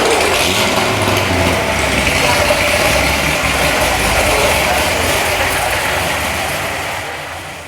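An engine running, with clattering mechanical noise over a low rumble, fading out near the end.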